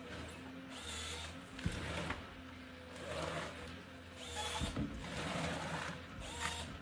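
Forestry harvester working, its engine humming steadily under repeated bursts of hiss and a few sharp knocks from the harvester head as it feeds, delimbs and cuts the trunk.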